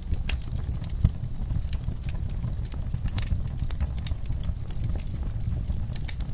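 Wood fire crackling in a fireplace: irregular sharp pops and snaps over a steady low rumble of the flames, with a louder pop about a second in.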